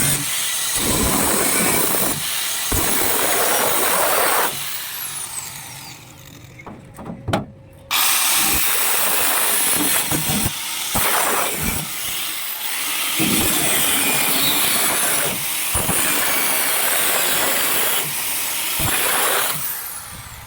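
A handheld power tool running in long bursts with a loud, steady hiss, stopping about four seconds in and starting again about eight seconds in. Each time it stops, a falling whine can be heard as it spins down.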